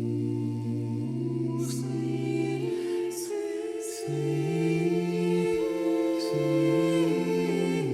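A choir singing a slow piece with long held notes, the voices moving together from chord to chord.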